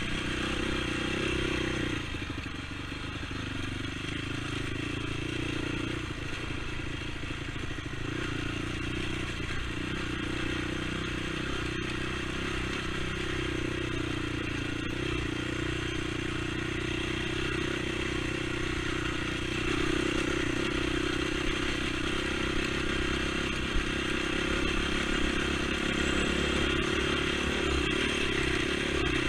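ATV engine running steadily as the quad is ridden, easing off slightly about two seconds in and picking up again around twenty seconds.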